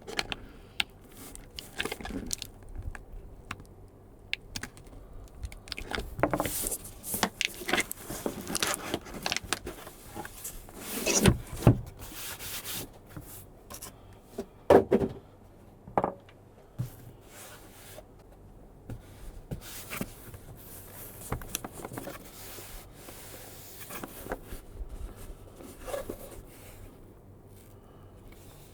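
Cardboard lens boxes being handled by hand: irregular scraping, rubbing and tapping of the packaging, with louder scrapes about eleven and fifteen seconds in.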